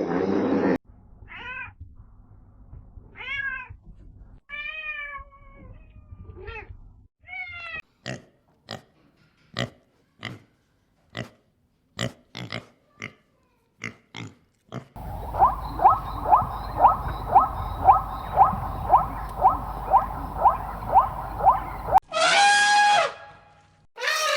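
A run of different animal calls. First come several short, arched cries, then a string of sharp clicks about two a second, then a quick call repeated about twice a second over a steady hiss, and near the end one longer cry.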